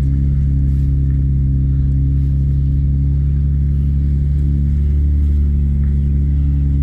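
Old Toyota Camry wagon's engine running steadily while driving, heard from inside the cabin as a loud, low drone, swelling slightly about five seconds in.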